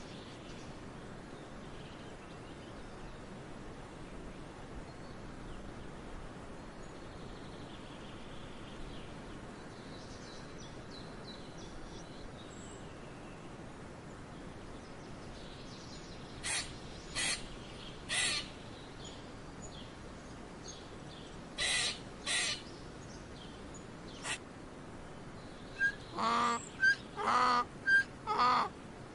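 Faint outdoor background with a few faint chirps, then from about halfway a series of short animal calls: three, a pair, a single one, and near the end a quicker run of about six louder calls.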